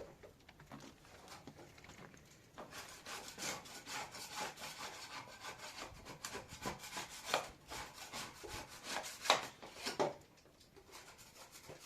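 Rapid, irregular scraping strokes, starting about two and a half seconds in and easing off near ten seconds.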